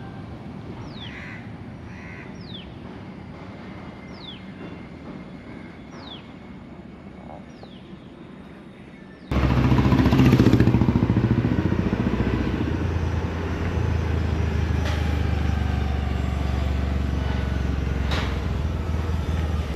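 A bird calls over and over with a short falling whistle, about once every second and a half. About nine seconds in, the sound cuts abruptly to a much louder passing train: a steady low drone with a few sharp clicks.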